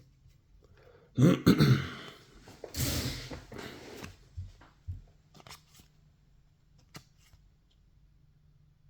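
A man coughs and clears his throat a second or so in, in two short noisy bursts, followed by a few faint clicks of trading cards being handled.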